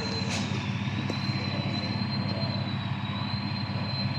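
A steady engine-like hum with a thin, slightly wavering high whine above it.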